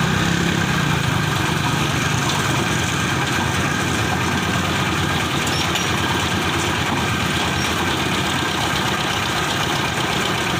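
Engine of construction machinery running steadily, with a fast low pulsing and no change in speed.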